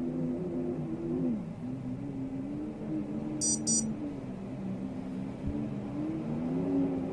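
Storm wind howling, with wavering low moaning tones that drift up and down in pitch over a steady rush. Two short high beeps sound a little past the middle.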